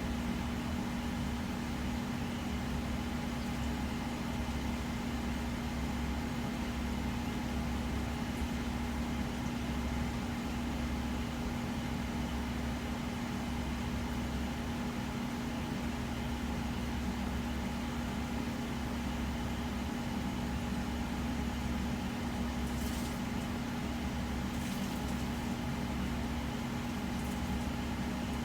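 Dual electric fans on a VMP triple-pass intercooler heat exchanger and the intercooler water pumps (a Rule 2000 pump and the factory pump) of a 2013 Shelby GT500 running with the engine off: a steady electric hum over a low drone, with a couple of faint ticks near the end.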